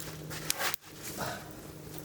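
Wood fire crackling in a firewood grill, with a sharp pop about half a second in and a rustling crackle a little later.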